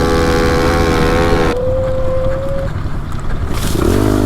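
Pit bike engine running at a steady high throttle, then shut off abruptly about a third of the way in so the engine note falls away. Near the end it picks up again with a rising note.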